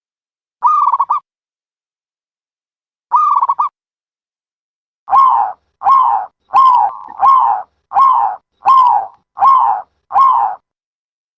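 A dove calling: two short, stuttering coos a couple of seconds apart, then a quicker run of eight coos in a row.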